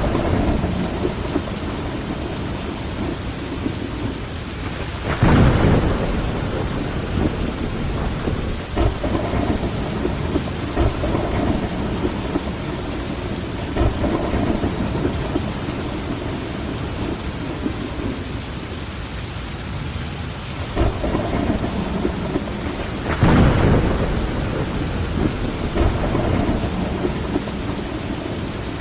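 Steady rain on window glass, with two louder, deeper swells of thunder: one about five seconds in, another later on.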